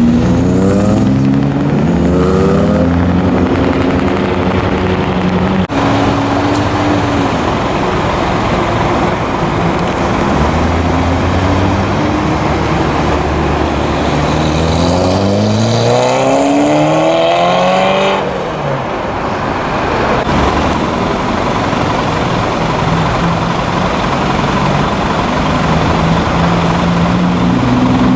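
Modified cars' engines and exhausts revving and accelerating hard one after another, the engine pitch climbing steeply in several runs, the biggest rise about fifteen seconds in, with steadier running in between.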